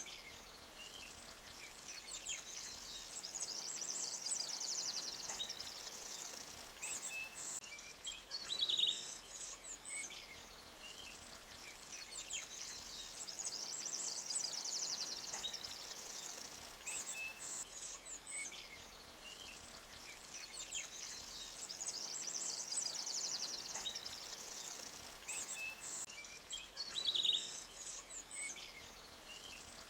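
Forest ambience: small birds chirping and twittering over a faint, steady hiss of a flowing stream. The same stretch of birdsong comes round again every nine seconds or so, like a loop.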